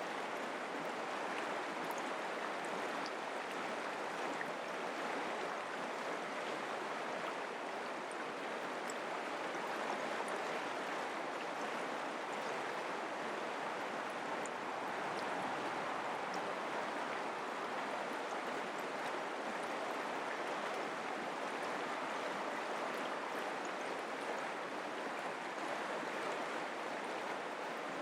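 Mountain creek flowing over rocks: a steady, even rush of water with small splashes.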